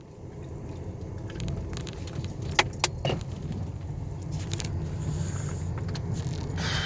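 Low rumble of a car in motion heard from inside the cabin, slowly getting louder, with two sharp clicks about two and a half seconds in and a light jingle like keys.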